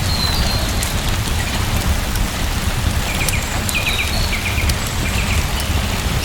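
Steady rain falling, an even hiss over a deep low rumble, with scattered sharp ticks of drops. A few short high chirps come through about halfway.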